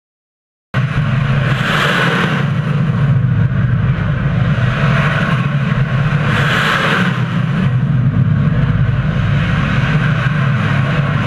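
Cruise missile launch roar: a loud, steady rushing roar with a low hum that cuts in suddenly just under a second in, swelling into louder hiss twice, about a second in and again near six seconds.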